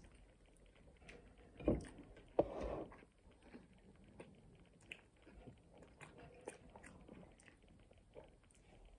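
Close-up chewing and biting of pulled pork burgers in soft buns, with small wet mouth clicks throughout. Two louder bite sounds come about two seconds in.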